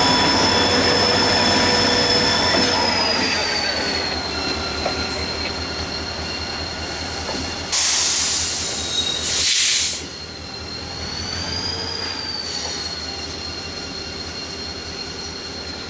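Freight train wheels squealing against the rail as the train moves slowly. It is one steady high-pitched squeal that drops in pitch about three seconds in and wavers later, over a low rumble. Two loud bursts of hiss come about eight and nine and a half seconds in.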